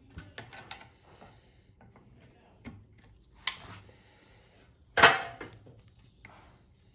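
Carbon-fibre mudguard being prised out of its mould with plastic panel removal tools: scattered clicks and creaks, then a sharp crack about five seconds in, the loudest sound, as the part releases from the mould.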